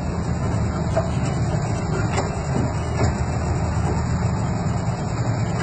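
Miniature park train running along its track: a steady low rumble of the moving train, with a few faint clicks.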